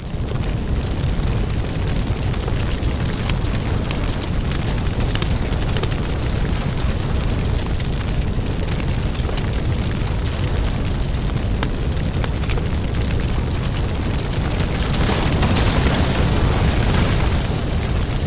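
Wood fire burning in a fireplace: a steady low roar of flames with scattered crackles and pops, a little louder near the end.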